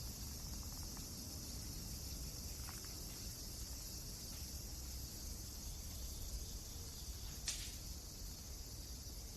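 Wood fire burning with a steady high hiss and a low rumble, and two small crackling pops, a faint one about three seconds in and a louder, sharper one near the end.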